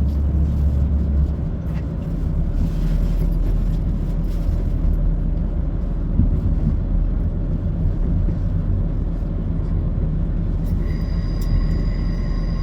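Class 170 Turbostar diesel multiple unit running: a steady low rumble of engine and wheels on rail. About 11 seconds in, a steady high wheel squeal joins.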